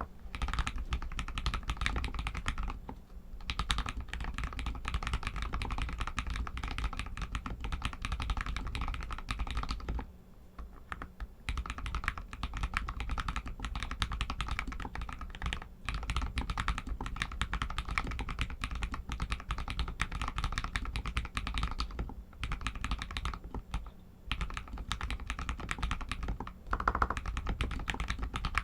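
Typing on an RK61 mechanical keyboard with Outemu red linear switches: a fast, continuous run of keystroke clacks, broken by a few short pauses.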